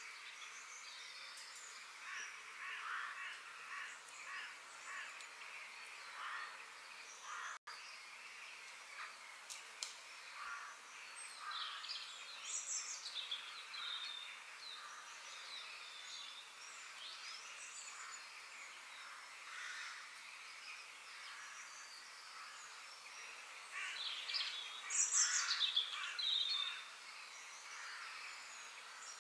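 Several forest birds chirping and singing over one another above a steady background hiss, with a louder flurry of calls toward the end. The audio cuts out for an instant about seven and a half seconds in.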